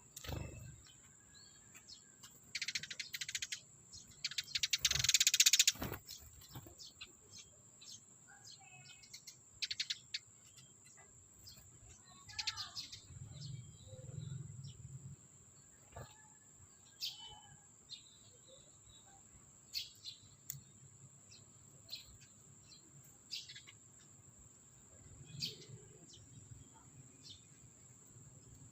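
Small birds chirping in short, scattered calls, with a loud rustling burst about three to six seconds in and a steady high-pitched whine underneath.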